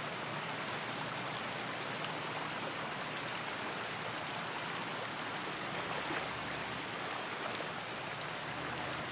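Steady, even hiss of moving water from the floodwater.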